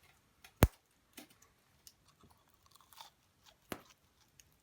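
A person biting into and chewing a crisp mini pizza with a gyoza-wrapper crust: a sharp crunch about half a second in, another near the end, and faint crunching between.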